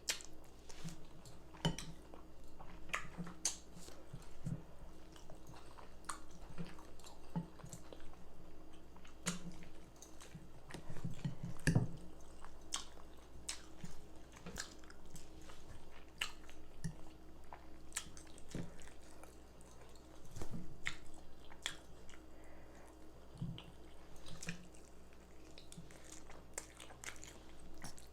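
Close-up eating sounds: chewing with wet mouth smacks and clicks, irregular throughout. The food is baked chicken, rice with gravy and onions.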